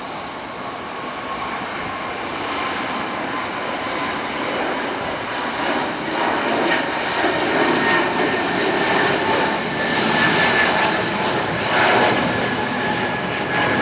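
Jet airliner's engines, a rushing noise with a high whine, growing steadily louder as the aircraft approaches.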